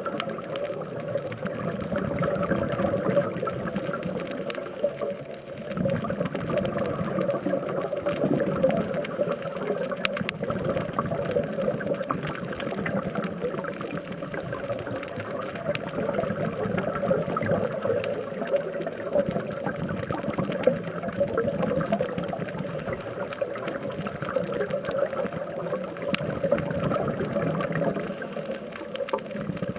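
Underwater sound on a scuba dive: a steady rushing of water and diver's bubbles, sprinkled with frequent faint clicks.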